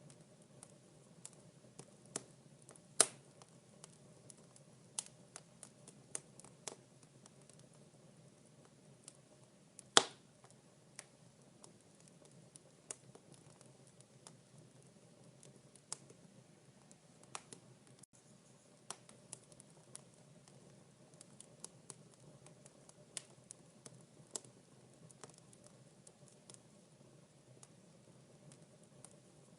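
Wood fire in a fireplace crackling: irregular small snaps over a soft low hiss, with two sharper pops, one about three seconds in and one about ten seconds in.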